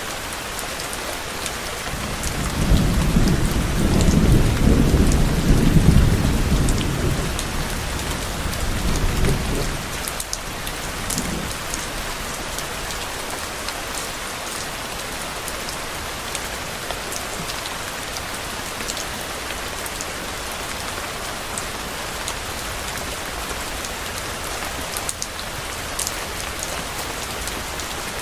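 Steady rain falling, with a low roll of distant thunder that swells a couple of seconds in, peaks and fades away after several seconds, leaving only the rain with scattered sharp drips.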